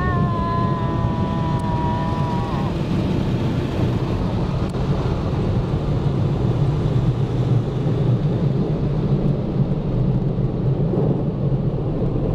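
Automatic car wash drying blowers roaring steadily on the car, heard from inside the car. A held tone sounds for the first two to three seconds and then drops away.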